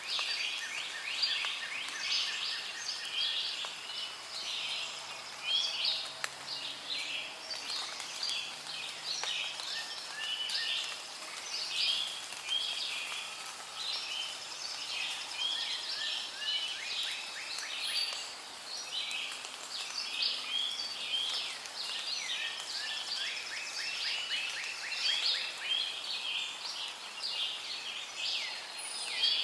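Rainforest ambience: a dense chorus of many birds chirping and calling over one another, above a steady background hiss.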